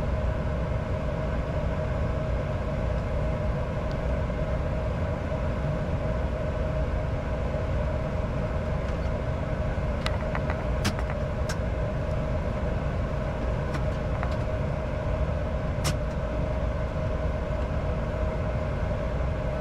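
Steady cockpit noise of a Bombardier Challenger 605 in descending flight: airflow and engine drone with a constant mid-pitched hum. A few faint short clicks come about halfway through and again near the end.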